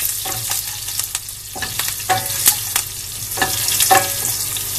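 Garlic, dried red chillies and curry leaves sizzling as they fry in hot groundnut oil in a steel pan, a spatula stirring through them. Several sharp scrapes and knocks of the spatula against the pan stand out above the steady hiss of the oil.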